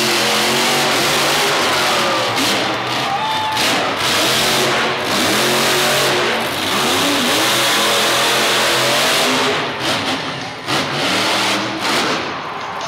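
Grave Digger monster truck's supercharged V8 engine revving hard, its pitch rising and falling again and again, with a few short drops in level near the end.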